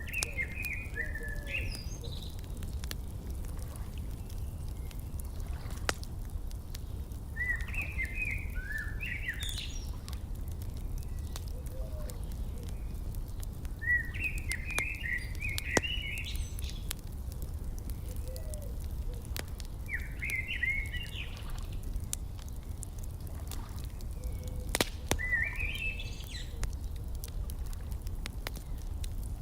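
A songbird singing a short warbled phrase about every six seconds over the occasional sharp pop of a crackling wood fire and a steady low rumble.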